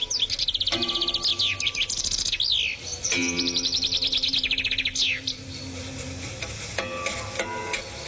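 Bird song: rapid high trills and quick rising and falling whistled chirps, strong for about the first five seconds and then fading. Steady low tones sound beneath the song around the middle.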